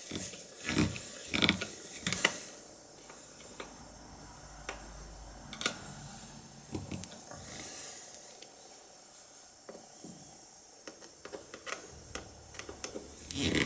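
Irregular clicks and knocks of small metal parts and hand tools being handled and fitted together, over a faint low hum.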